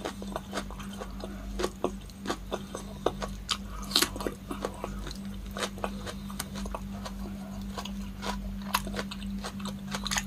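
Close-miked chewing of raw cucumber sticks: irregular crisp crunches and wet mouth clicks, over a steady low hum.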